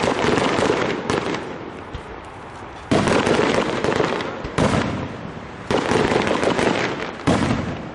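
Aerial fireworks shells bursting: about six sharp bangs a second or two apart, each trailing off over a second or so.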